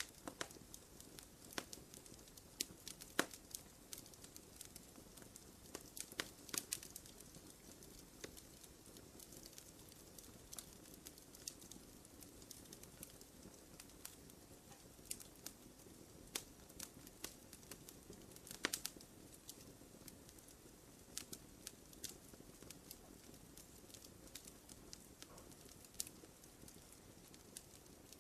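Wood fire crackling: irregular sharp pops and snaps over a soft steady rush of burning, with a few louder pops about three seconds in and again about two-thirds through.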